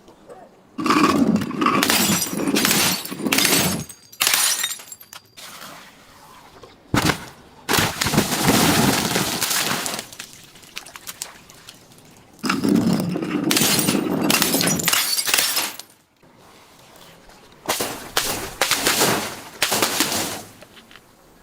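Glass bottles being broken and crushed: four bouts of shattering and crunching glass, each two to three seconds long, with short pauses between.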